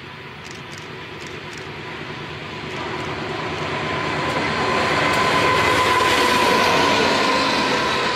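A BNSF freight train led by two diesel locomotives approaches and passes, its engine and wheel noise swelling steadily to a peak about six seconds in as the locomotives go by and the coal hopper cars follow. A steady whine rises with it.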